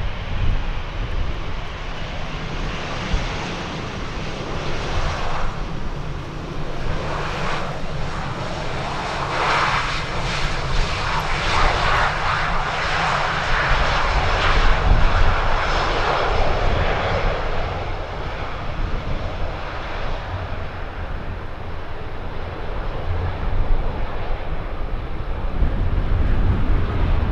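Jet airliner passing, its engine roar swelling to a peak about ten to seventeen seconds in and then fading away, with a low rumble of strong wind on the microphone underneath.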